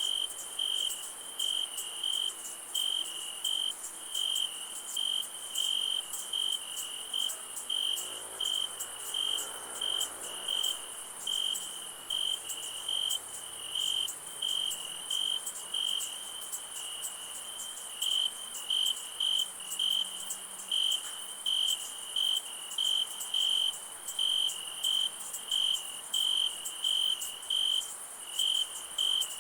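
Crickets chirping in an even, steady rhythm of about two chirps a second, over a continuous higher-pitched insect trill.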